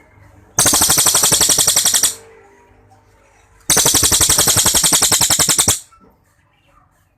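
Cililin songbird singing two long, loud rapid-fire trills of evenly repeated notes, about ten a second, each lasting around two seconds with a pause between: the 'tembakan' (shots) prized in its song.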